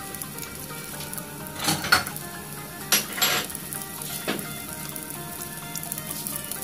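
Garlic cloves sizzling in hot oil in a pot, a steady crackle with a few sharper, louder pops about two, three and four seconds in.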